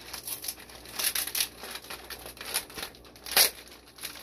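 Plastic fish shipping bag crinkling as it is cut open, heard as a series of short rustling, tearing bursts, the sharpest one about three and a half seconds in.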